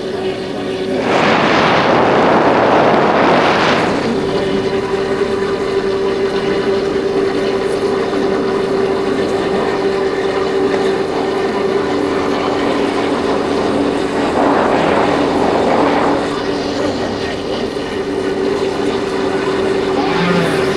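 Yamaha Factor 150's single-cylinder four-stroke engine running steadily while riding, heard with wind noise on the microphone. There are two louder rushes of noise, one about a second in and one past the middle.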